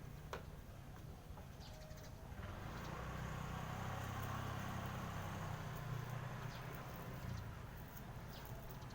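Outdoor ambience at a rooftop bird feeder: scattered light taps and ticks, likely birds pecking and stepping, with a sharp click just after the start. In the middle a low rumble swells for about five seconds and then fades.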